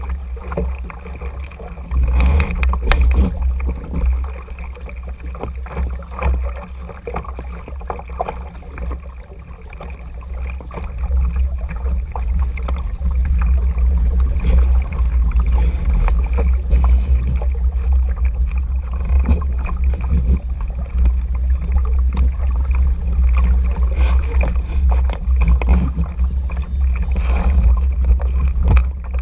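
Water rushing and splashing along the hull of an RS Tera sailing dinghy under way, with wind buffeting the action camera's microphone in a steady deep rumble. A few sharp splashes or knocks stand out, about two seconds in and twice near the end.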